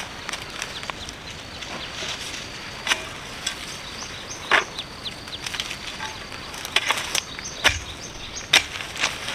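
Irregular sharp knocks and crackles over a steady high-pitched insect drone. The loudest knocks come about three seconds in, midway and near the end.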